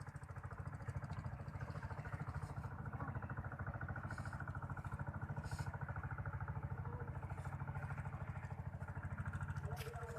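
Small engine running steadily at an even pace, its rapid firing pulses unbroken.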